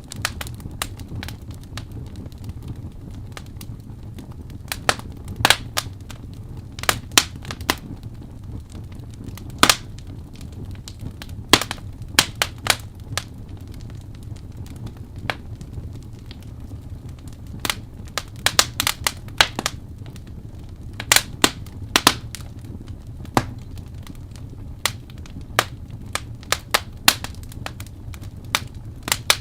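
Wood campfire crackling and popping: irregular sharp snaps, some in quick clusters, over a steady low rumble of the burning fire.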